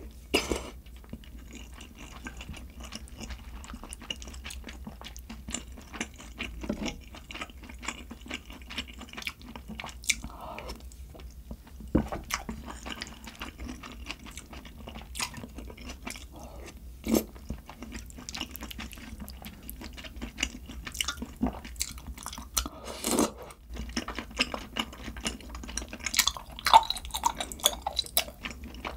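Close-miked chewing and biting of a person eating, with frequent short sharp mouth clicks and occasional crunches.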